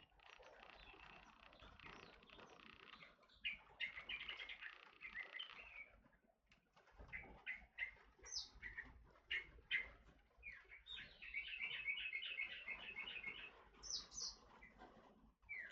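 Forest oriole (kepodang hutan) calling: a series of short chirps and quick notes, with a fast chattering trill for about three seconds past the middle and a few sharp clicks between the calls.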